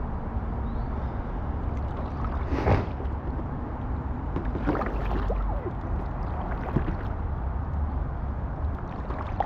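Kayak paddle strokes splashing in river water from an inflatable kayak, a few separate splashes over a steady low rumble.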